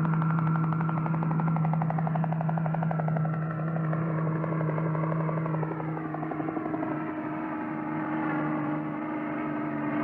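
Cartoon vehicle engine sound effect: a fast, rattling motor drone over a steady low hum. Its upper tones slide downward in the middle.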